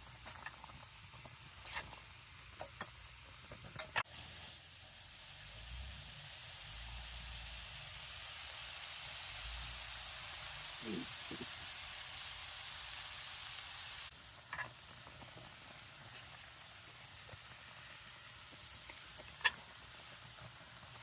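Mushrooms and zucchini sizzling as they fry in oil in a pan, with a few sharp clicks of a utensil stirring. The sizzle grows louder about four seconds in and drops back about fourteen seconds in.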